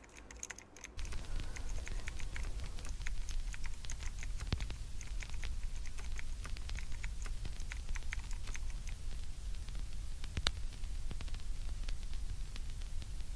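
Typing on a laptop keyboard: quick, irregular key clicks over a steady low hum, with one sharper click about ten seconds in.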